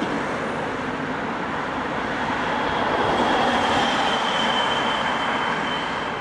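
Steady rushing noise of a moving vehicle, with a faint high-pitched whine coming in from about two seconds in.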